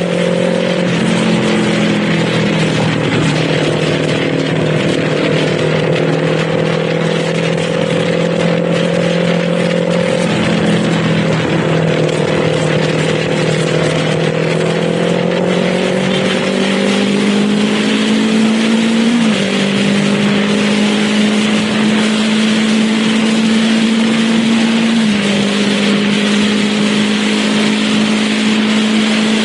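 Kawasaki Z400's parallel-twin engine running under way at moderate, steady revs, its note climbing slowly and dropping a step a few times as the throttle and gears change, over a steady rush of wind and road noise.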